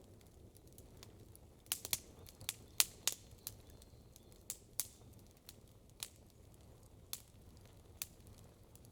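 Wood campfire crackling: irregular sharp pops and snaps, a quick cluster of them about two to three seconds in, then scattered single pops, over a faint low rumble.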